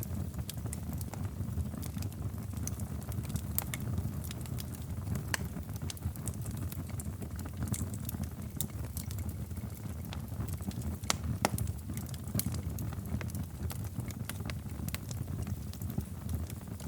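Wood fire burning in a fireplace: a steady low rumble with frequent sharp crackles and pops scattered irregularly, a louder pop about eleven seconds in.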